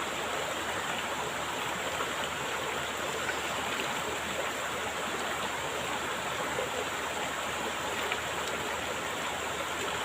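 Flowing stream water rushing steadily, a constant unbroken noise.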